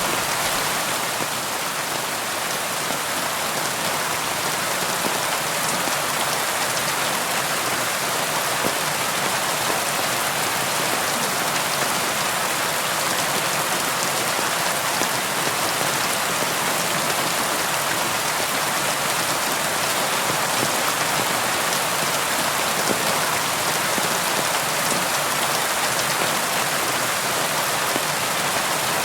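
Steady rain falling: an even hiss of many drops with fine scattered patter, little low rumble, and no thunder.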